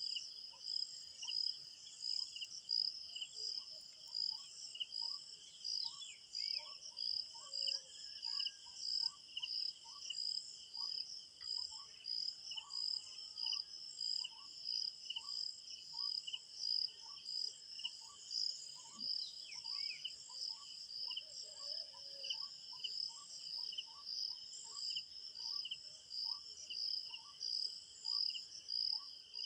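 Crickets chirping in a steady pulsing chorus, with a short low note repeating more than once a second. A few brief falling bird calls come through now and then.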